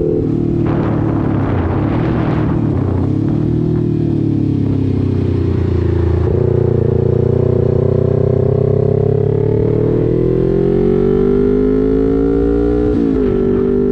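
Motorcycle engine running on the move, its pitch sagging then climbing steadily as it accelerates, with a sudden drop near the end as it shifts up a gear. Wind noise rushes over it in the first few seconds.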